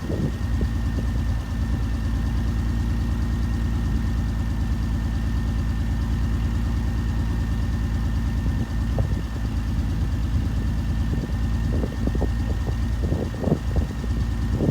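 BMW E46 320i straight-six idling through a straight-pipe exhaust, a steady rapid pulsing, with a few louder, uneven bursts near the end.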